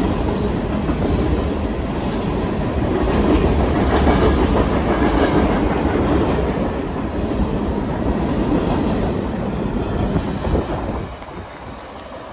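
Freight train passing close by, its wheels clacking over the rail joints. The noise drops away about eleven seconds in as the train clears.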